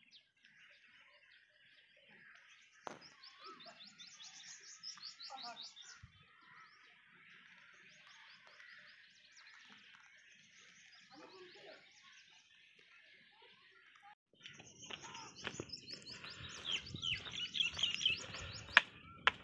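Birds singing, with repeated quick runs of high chirping notes over a faint steady background chorus. About two-thirds of the way through, a low rustling noise and a few sharp clicks come in.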